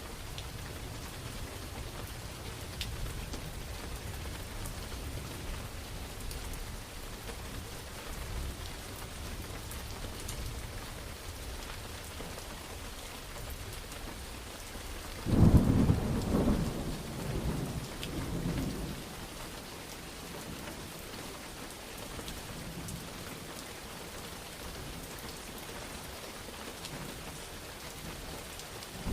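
Steady rain falling, with a sudden loud clap of thunder about halfway through that rumbles and dies away over a few seconds.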